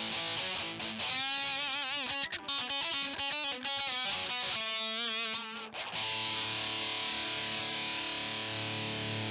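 Electric guitar through a CoolMusic Insane Distortion pedal, heavily distorted, playing a lead phrase of quick picked notes and notes shaken with wide vibrato. About six seconds in it settles into a held chord that rings steadily.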